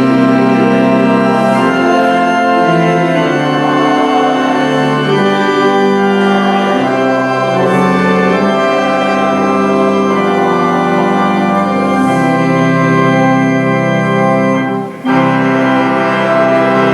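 Church organ playing sustained chords that change every second or two, with a short break between phrases about 15 seconds in.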